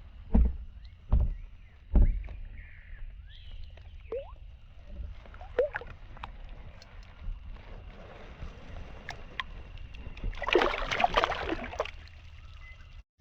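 Knocks and rattles on a kayak hull as a fish is handled aboard, with three heavy knocks in the first two seconds. Near the end comes a burst of splashing and rattling lasting about a second and a half.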